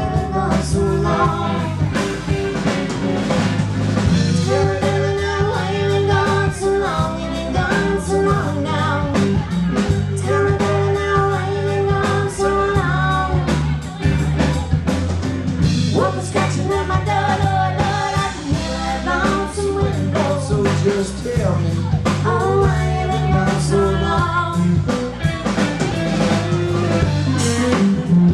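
Live band playing a blues number: drum kit and bass keep a steady groove under a held, bending lead melody line.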